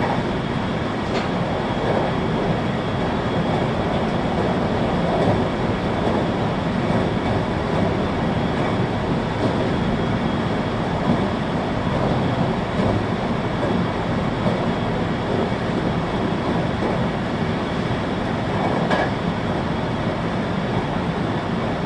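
Running noise of a 521-series electric train heard from inside the car: a steady rumble of wheels on rail, with a couple of faint clicks, one about a second in and another near the end.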